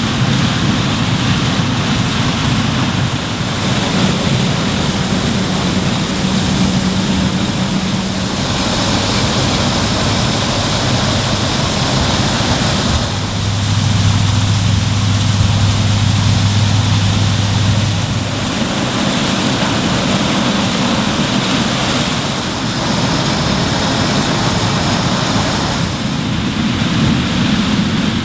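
Diesel engines of tractors and harvesting machines running hard, with a steady engine hum under a rushing noise of work. The sound changes abruptly every four to five seconds from one machine to the next.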